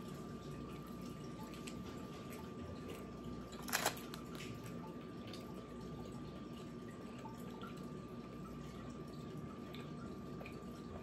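Soft eating sounds, chewing and small mouth clicks, over a steady faint trickle of water with a thin hum. A short crackle about four seconds in is the loudest moment.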